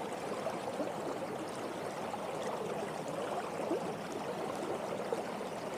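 Steady sound of flowing water, a current running with light gurgling.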